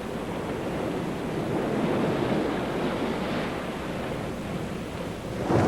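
Sea water rushing and surging like surf, a steady wash that swells and then grows suddenly louder near the end.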